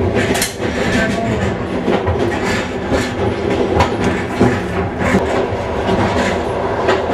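Passenger train running on rails, heard from inside the carriage: a steady rumble with the wheels knocking over rail joints about once a second.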